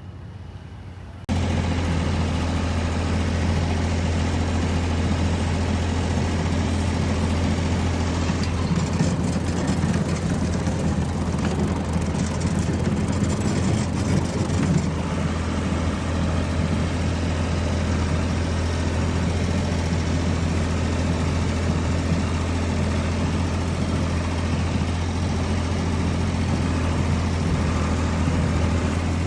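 An engine running steadily at a constant speed. It cuts in abruptly about a second in, already at full level.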